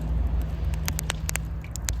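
Wood campfire crackling: sharp irregular pops and snaps, several a second, over a steady low rumble that is the loudest part.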